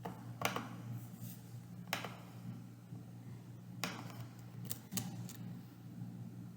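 A few scattered computer keyboard key clicks, sparse and uneven, over a steady low electrical hum.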